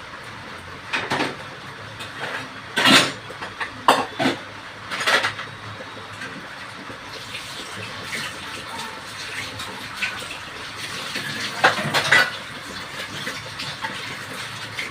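Metal kitchen utensils clattering against cookware in several separate knocks, the loudest around three to five seconds in and again near twelve seconds, over a steady hiss.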